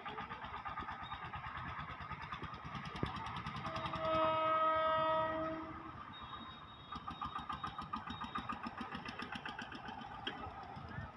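Asansol–Haldia Express passenger train running slowly, a steady rumble with fine rhythmic clatter from the wheels on the rails. About four seconds in, a horn sounds once and is held for about two seconds.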